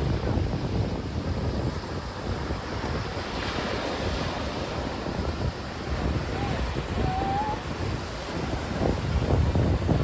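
Strong wind buffeting the microphone in gusts over the wash of sea waves. A short, thin wavering whistle comes through about seven seconds in.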